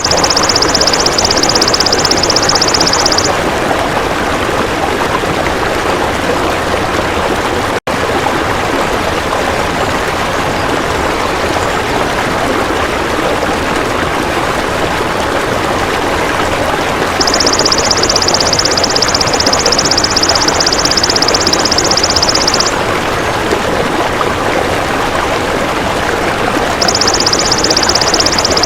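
Belalang emas insect giving a high, rapidly pulsed buzzing trill in three long bouts, over a steady rush of flowing water. The sound cuts out for a split second about eight seconds in.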